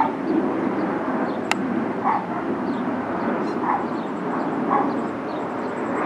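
A dog barking about four times at intervals of a second or more, over a steady background noise, with one sharp click about a second and a half in.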